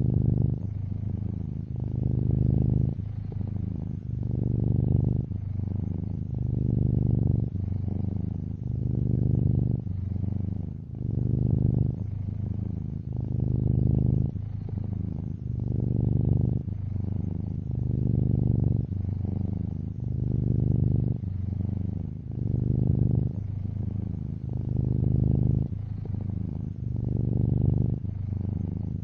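Domestic cat purring close up: a continuous low rumble that swells and eases in a steady rhythm, about once every two seconds, as the cat breathes in and out.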